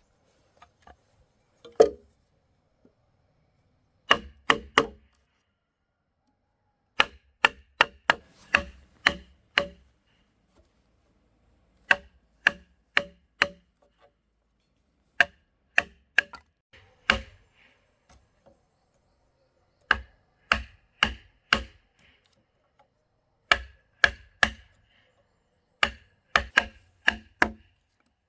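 Repeated sharp blows of a hand tool striking wood, in short runs of three to seven strikes at about two to three a second, with pauses of a second or two between runs.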